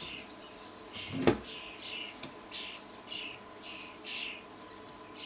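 A bird chirping over and over, short falling notes about two a second, with one sharp click about a second in and a faint steady high tone underneath.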